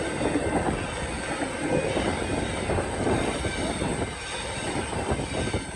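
Suburban train passing over a level crossing: steady wheel-and-rail rumble that eases off at the end, with the crossing's electronic bell ringing as a steady tone.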